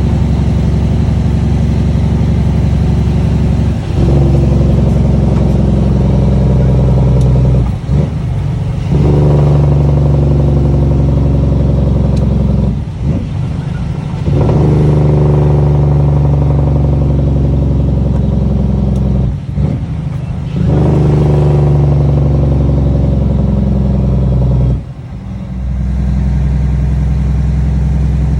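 Straight-piped Cummins ISX inline-six diesel of a Kenworth T800 running loud through six-inch straight pipes. It holds a steady deep note for stretches of a few seconds, dipping briefly about five times.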